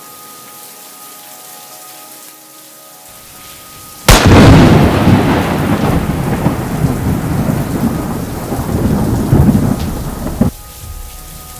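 Rain falls, then a sudden loud thunderclap about four seconds in rolls into a long rumble that cuts off abruptly near the end, leaving the rain.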